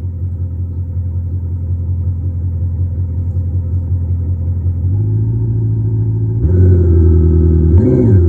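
THOR electronic muffler speaker on a Prius PHV playing a simulated BMW X6M exhaust note with an RP Stage 2 exhaust. It holds a steady idle, steps up in pitch and loudness about five seconds in and again about a second and a half later, then gives one quick rev blip near the end.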